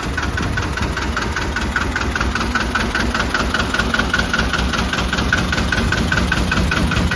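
Two-cylinder Deutz tractor diesel engine idling steadily, with an even rhythmic knock.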